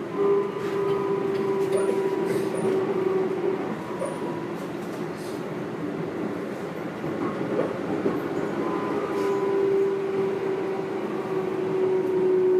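Keikyu New 1000 series electric train running, heard from inside a motor car: the Toyo Denki IGBT VVVF inverter and MB-5121-A traction motors give a steady humming tone over the rumble of the wheels, with a few sharp clicks from the rail joints. This set's motors are known for an unusually loud, abnormal noise.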